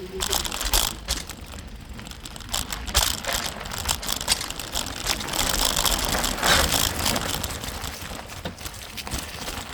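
A bicycle coasting fast downhill on a rough dirt trail: frame and parts rattling over bumps, with many sharp clicks and knocks over steady tyre and wind noise that swells about halfway through.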